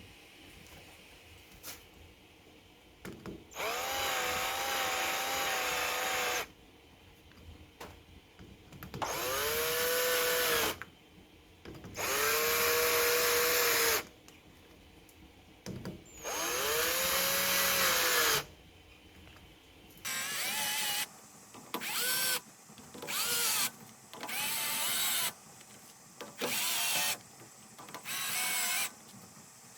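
Electric drill motor run in bursts: four squeezes of about two to three seconds, each whining up to speed and winding down, then a quicker run of short bursts about once a second near the end.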